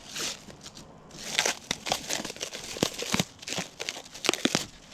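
Crinkling and rustling as a roll of window screen mesh is handled and laid out, with several sharp clicks and taps mixed in.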